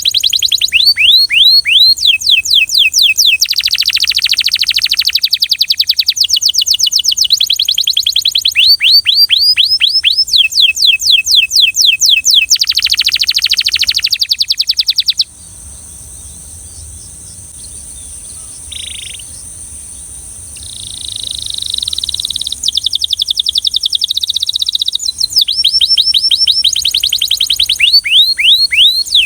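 Belgian canary singing in rapid runs of repeated descending whistled notes and buzzy trills. About halfway through the song drops to a softer passage for several seconds, then the loud fast runs return.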